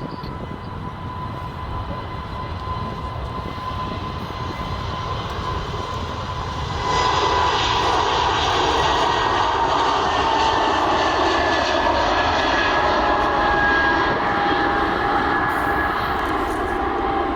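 An airliner's engines passing close by, with a steady rumble that grows much louder about seven seconds in. A high engine whine slowly drops in pitch as the plane goes past.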